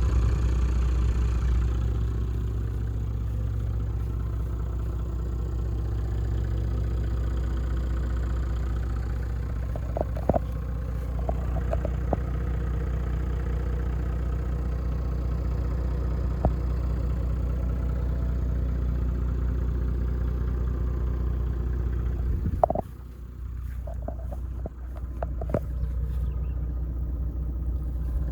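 1999 Toyota Land Cruiser 100 Series' 4.2-litre straight-six turbo diesel running steadily, with a few sharp clicks about ten seconds in. About 23 seconds in the sound drops sharply for a few seconds, with a couple of knocks, then builds back up.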